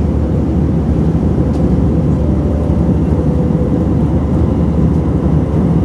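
Steady in-flight cabin noise of an Airbus A321 airliner: a constant low rumble of the jet engines and airflow at cruise, with a faint steady hum over it.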